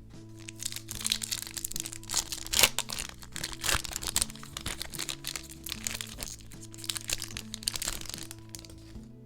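Packaging being handled and crinkled, a dense crackle with sharp clicks, loudest a little under three seconds in and stopping near the end, over steady background music.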